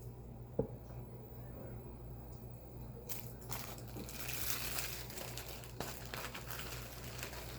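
Faint crinkling and rustling of plastic, with a few small clicks, as a small remote control is handled and its batteries fitted. The rustling picks up about three seconds in.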